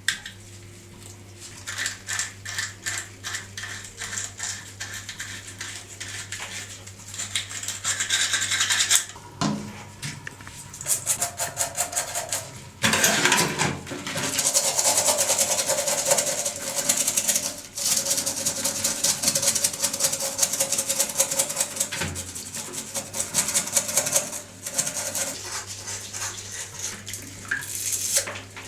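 Hand scrubbing of a dirty horn: rapid rubbing strokes on its surface, in quick runs broken by short pauses.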